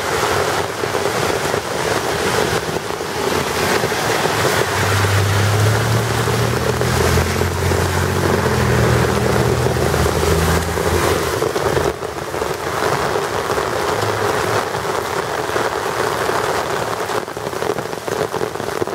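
Steady rain falling on a wet street and sidewalk. A low hum rises and fades in the middle, from about five to eleven seconds in.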